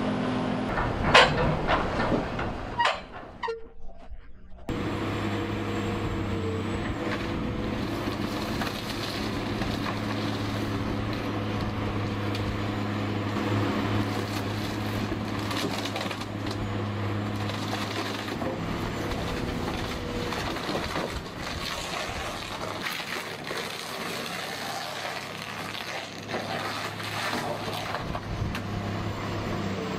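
Heavy demolition machinery at work: a few sharp cracks and snaps of material breaking, then, a little under five seconds in, a steady diesel engine drone with irregular crunching and cracking of material being torn apart.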